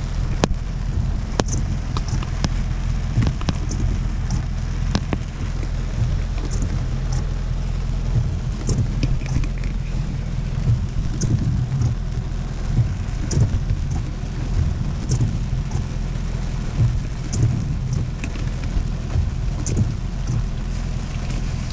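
Rain pattering on a car's roof and windshield, heard from inside the cabin as many scattered small taps, over a steady low hum.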